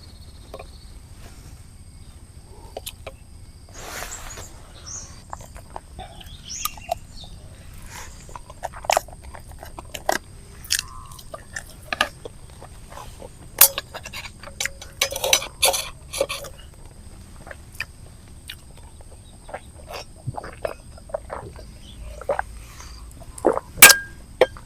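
A person eating a meal: chewing with scattered small clicks, taps and clinks of food and utensils against a dish.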